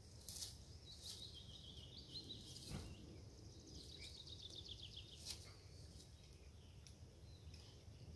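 Quiet outdoor ambience with a small songbird singing two fast descending trills, one near the start and one about halfway through. A few short sharp clicks or snaps stand out, the loudest just before the middle.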